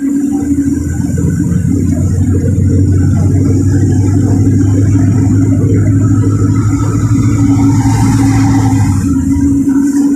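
Cabin of a LiAZ 4292 city bus under way: the engine's steady drone with road and body noise. About nine seconds in the low drone drops away and a short hiss sounds.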